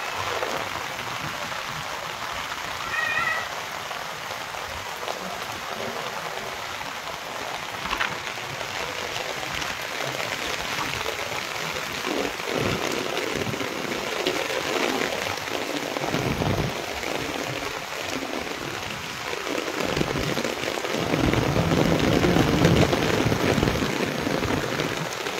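Heavy rain pouring steadily onto flat concrete rooftops and a street, driven by wind. A brief high-pitched call about three seconds in, and a louder low rumble over the last few seconds.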